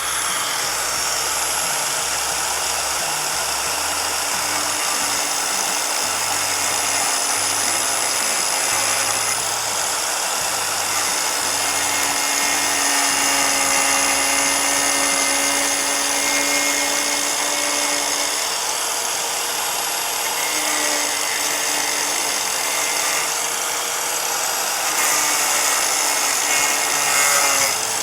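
Small angle grinder running continuously while cutting the ABS plastic roof skin of a pop-up camper, with a steady high whine and a lower motor note that drifts in pitch as the load on the disc changes.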